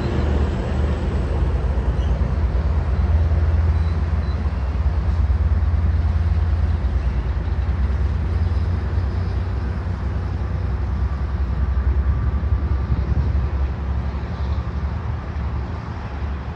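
Trinity Railway Express diesel push-pull commuter train pulling away: a steady low rumble from the engine and wheels on the rails, slowly fading as the train recedes.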